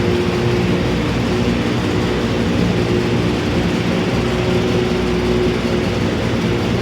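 Mercedes-Benz Axor truck's diesel engine running steadily at an even speed.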